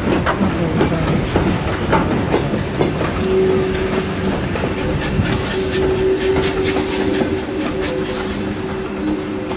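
Steam-hauled train running on the rails: wheels clattering with many clicks, and a steady tone with brief high wheel squeals from about three seconds in.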